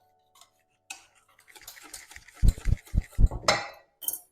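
Wire whisk beating thick peanut sauce in a bowl: quick irregular strokes against the bowl, starting about a second in and growing heavier halfway through with a run of knocks.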